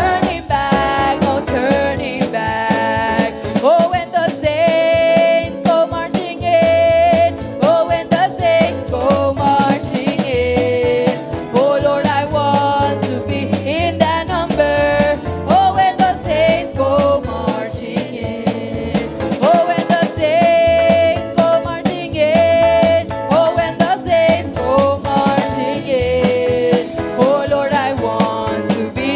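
Live church worship music: a band with drum kit playing an upbeat song, with a sung melody line over it.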